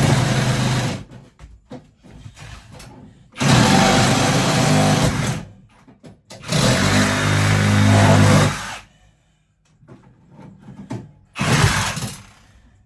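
A handheld power tool runs in four bursts of one to two and a half seconds each, with a low buzz under a harsh noise, cutting through the refrigerator's copper line.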